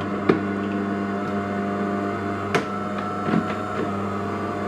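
De'Longhi ECAM coffee machine's brew-unit drive motor running steadily as the brew group travels down, with a few light clicks. It runs without knocking or clacking, the sign of a freshly cleaned brew group that no longer jams.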